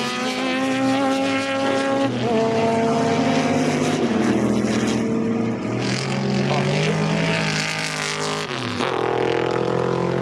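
Historic sports racing car engines running hard on track, their pitch holding steady and then shifting abruptly a few times as cars pass or change gear.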